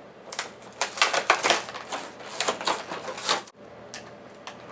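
Rapid clicking, rattling and crinkling of a toy train's packaging being opened by hand, dying down about three and a half seconds in.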